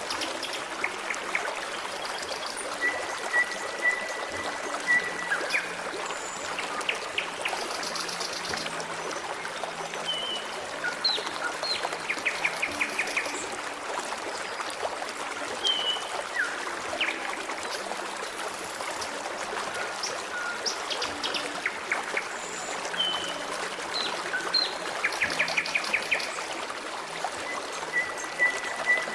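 Forest stream trickling steadily, with birds singing over it: scattered short chirps, a held whistled note, and rapid trills twice.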